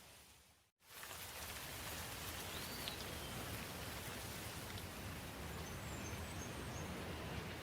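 Steady rain falling, with a few short bird chirps. Under a second in the sound fades out to silence and fades straight back in, as at a loop or edit point.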